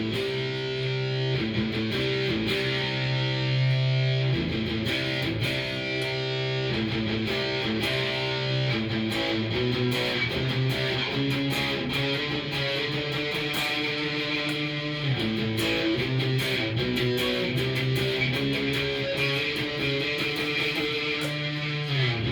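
Cort S series electric guitar played through a Fender amp, strummed and picked chords with sustained notes changing every second or so.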